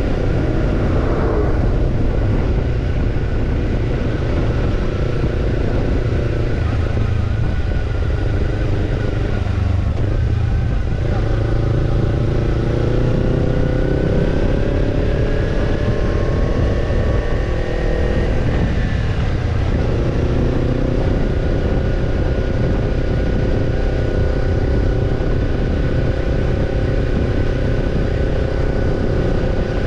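Kawasaki Ninja 250 parallel-twin engine running through a BEET NASSERT Evolution Type II titanium slip-on muffler, on the move. The exhaust note rises and falls with throttle and gear changes, climbing for several seconds near the middle and then dropping, over a constant low rumble.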